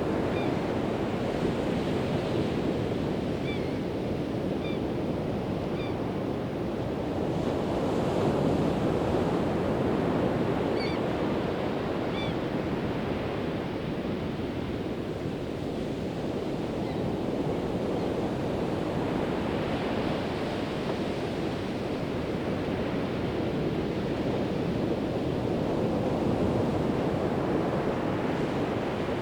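Pacific Ocean surf breaking and washing steadily on a sandy beach, swelling and easing every several seconds.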